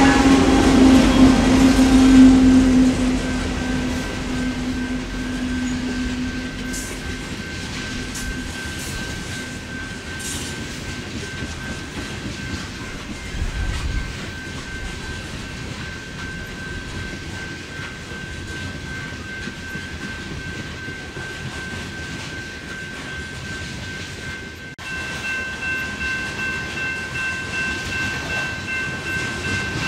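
Loaded coal hopper train rolling past. The locomotives' engine drone fades over the first few seconds, leaving the steady rolling rumble of the hopper cars with a thin, steady, high-pitched tone. About 25 seconds in, the sound abruptly becomes closer and louder, and the high tone grows stronger.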